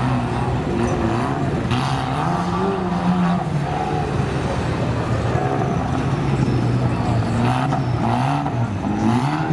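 A competition truck's engine revving hard, its pitch rising and falling again and again as it is driven over a rough course, holding steadier through the middle and climbing again near the end.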